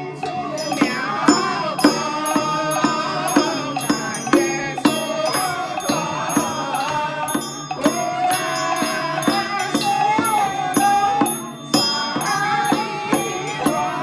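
Taiwanese temple ritual music for sutra chanting: a wavering melody over steady percussion strokes about twice a second.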